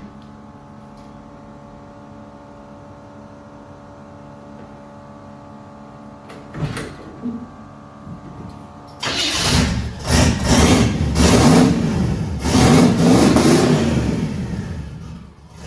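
Turbocharged 1962 Chevy engine, running on its new distributor, idling steadily, then revved hard in several blips for about six seconds before dropping back near the end.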